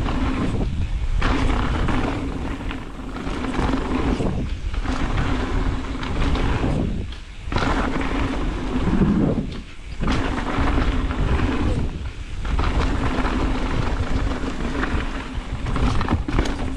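Wind rumbling over the microphone with tyre and frame noise as a mountain bike is ridden down a dirt trail, loud in stretches broken by short lulls.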